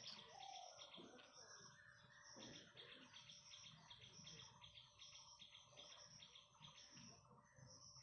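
Faint bird chirping: high, short chirps repeated several times a second throughout, with a short lower whistled note about half a second in.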